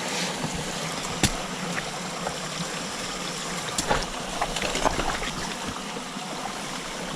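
Steady rushing outdoor noise, with one sharp knock about a second in and a cluster of short clicks and scrapes around four to five seconds.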